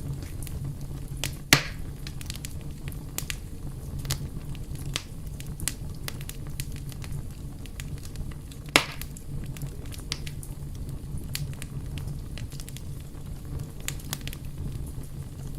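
Wood fire burning with a steady low rumble and constant crackling, and two loud pops, one about a second and a half in and one near the middle.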